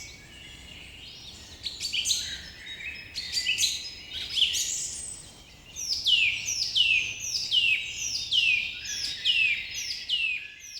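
Songbird calling: varied high chirps and twitters, then from about six seconds in a run of about seven clear notes, each sliding quickly down in pitch, repeated about every half second.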